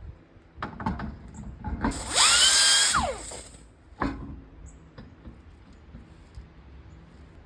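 A cordless power tool, used on the wheel's lug nuts, spins up with a rising whine, runs for about a second, then winds down about three seconds in. Sharp metal knocks come just before it and once about a second after.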